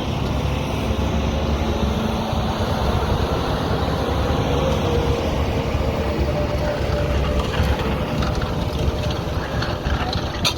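A heavy vehicle's engine running with a steady low rumble and a faint held tone, and a sharp knock near the end.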